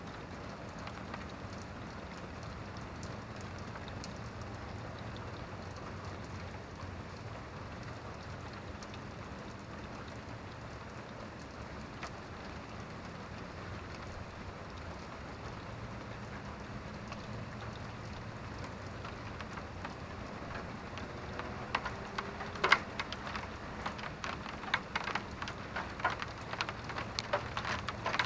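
Steady rain falling. In the last several seconds, louder separate drops tap sharply on a nearby surface.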